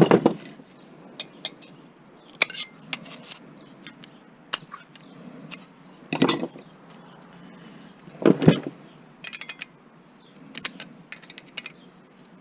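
Metal clinks, taps and knocks from a small metal electronics box and tools being handled during disassembly. Three heavier knocks stand out, one at the start and two later, with a quick run of small ticks after the last.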